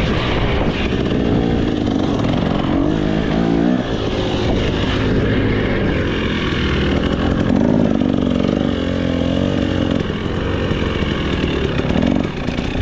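KTM 300SX single-cylinder two-stroke dirt bike engine ridden wide open: it revs up and drops back several times as the bike is shifted and the throttle is rolled off and on again.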